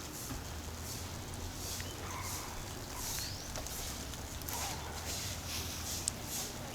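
Footsteps, a soft crunching scuff every half second to a second, over a low steady rumble.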